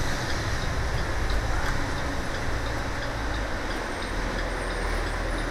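Steady running noise of a diesel school bus driving, heard from inside the cabin: engine drone and road noise, with no marked changes.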